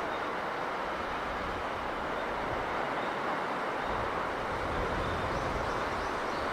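Steady rushing of sea breeze and surf, an even noise that does not rise or fall, with a few faint high chirps near the end.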